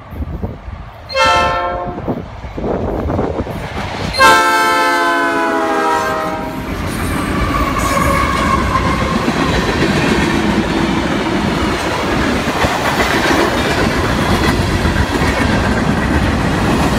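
RCPE locomotive 6452 sounding its multi-chime horn, a short blast about a second in and a longer one about four seconds in whose pitch drops slightly as it passes, followed by the steady rumble and clickety-clack of the train rolling by.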